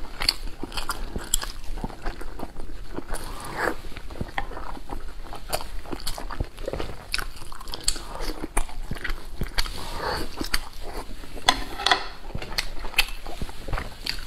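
Close-miked eating: biting into and chewing boiled dumplings dipped in chili sauce, with many short, irregular wet mouth clicks and smacks.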